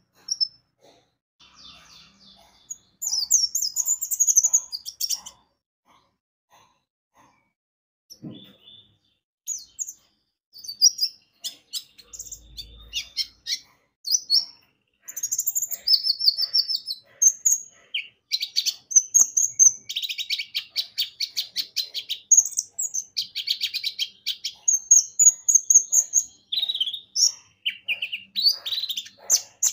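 Kolibri ninja (a sunbird) singing: rapid, high twittering chirps and trills in bursts. It pauses briefly early on, then sings almost without break through the second half.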